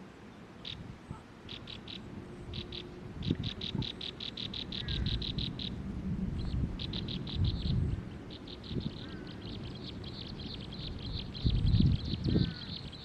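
A small bird trilling: runs of short, high, evenly repeated notes, about eight a second, several runs in a row with brief gaps between them. Low rumbles and thumps sound underneath at times.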